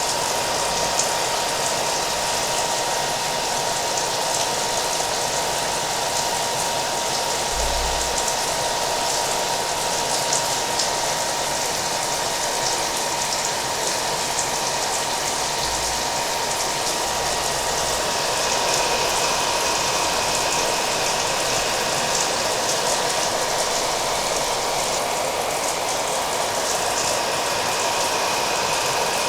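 A hair dryer running steadily with a thin, constant whine, mixed with falling rain.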